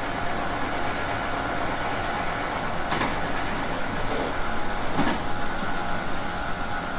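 JR West 221 series electric train running between stations: a steady roll of wheels on rail and motor noise, with two sharp knocks about two seconds apart near the middle.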